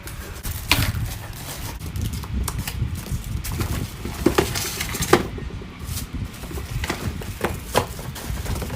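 Plastic vacuum cleaner parts and their packaging being lifted out of a box, with a run of irregular knocks and clicks and some rustling.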